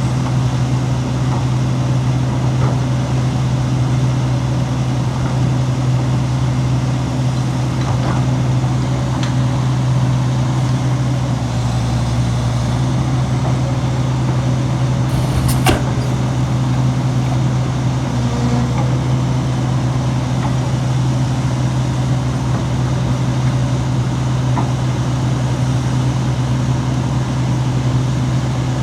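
Heavy diesel engine of earthmoving machinery running steadily at constant speed, with a single sharp click about fifteen and a half seconds in.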